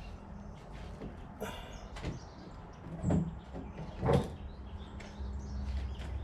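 A few separate clunks and knocks, the loudest two about three and four seconds in, over a low steady hum.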